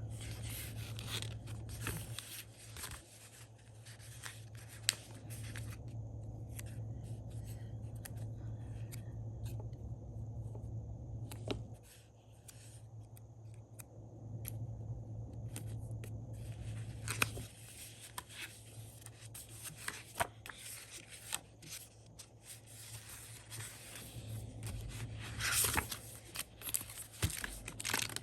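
Hands working with paper and stickers: rustling, peeling and light taps, with scattered small clicks over a steady low hum.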